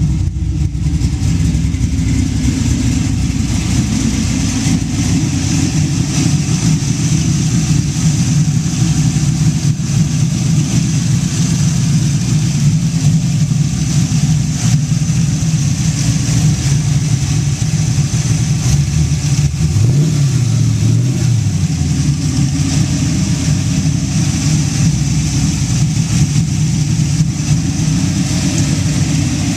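Carbureted 6.0-litre LQ9 V8 with a Texas Speed Torquer 2 cam idling through headers and Flowmaster Delta Force race mufflers, a steady, choppy idle. About twenty seconds in it revs up briefly and drops back to idle.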